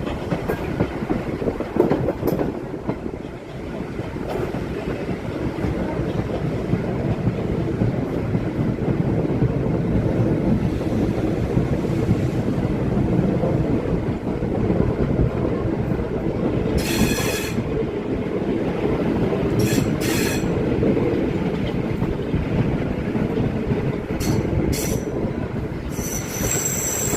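Train running along the track with a steady low rumble. Its wheels squeal in short, high-pitched bursts: about a second long in the middle, twice briefly later, and again near the end.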